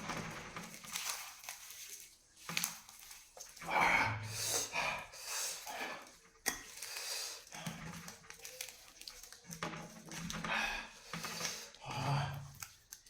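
Close-up eating sounds: a person chewing and crunching crisp fried dry chillies with rice, in irregular bursts with short sharp crunches and mouth noises.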